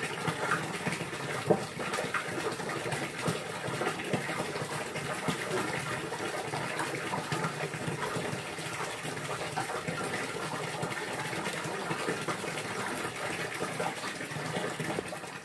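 Steady gushing, splashing water.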